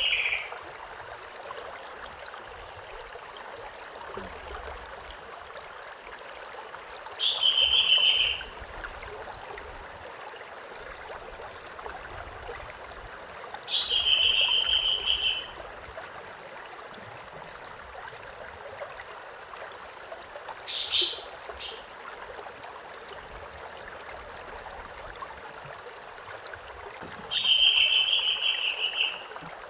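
A stream running steadily, with a bird calling about every six or seven seconds: mostly a short high note dropping into a longer held trill, once as two quick sharp notes.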